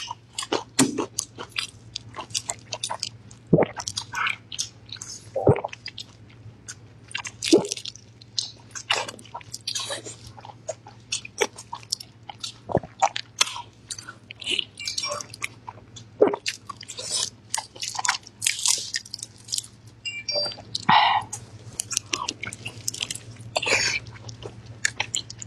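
Close-miked wet chewing, biting and lip-smacking of a soft Henan stuffed sausage (guanchang) soaked in chili oil. It comes as a dense, irregular string of short smacks and clicks.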